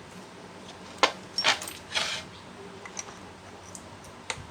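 Several sharp clicks and knocks, about five in irregular succession, the loudest in the first half.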